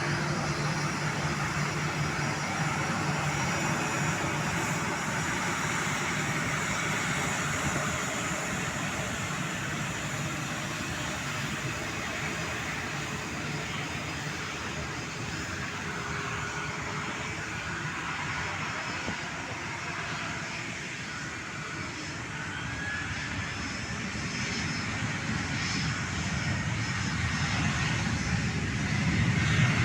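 Airliner engine noise, a steady rushing sound that eases to its quietest about two-thirds in, then builds again near the end.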